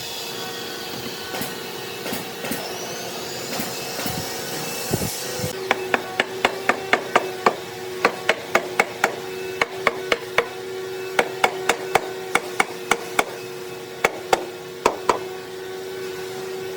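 A quick, irregular series of sharp, light taps, about two or three a second, starting about five seconds in, over a steady hum. Before the taps there is a high hiss that stops.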